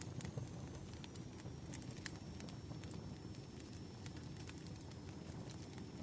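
Wood fire crackling: irregular sharp pops and snaps over a steady low rush of burning logs.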